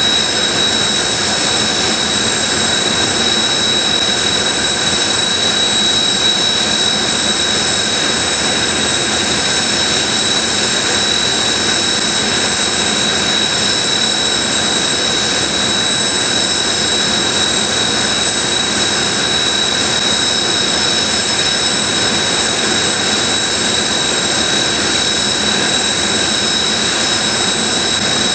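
Kawasaki T-4 jet trainers' F3 turbofan engines running steadily at ground idle, a steady high whine over rushing jet noise.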